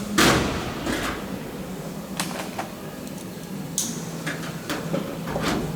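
Workshop clatter of irregular metal knocks and clicks from hand work on the airframe. The loudest knock comes just after the start and rings briefly, with a steady low hum underneath.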